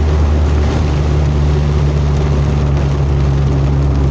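Buggy engine running steadily while driving, its pitch rising slightly about a second in, over a constant rush of road and wind noise.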